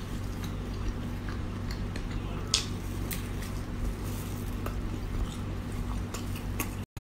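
A person chewing cooked lobster, with scattered faint clicks over a steady low hum. The sound cuts out abruptly just before the end.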